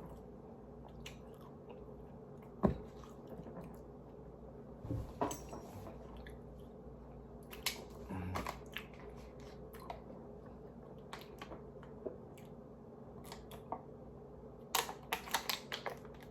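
Close-miked eating: scattered wet chewing and biting noises with occasional sharp clicks, a brief cluster of quick clicks near the end, over a steady low hum.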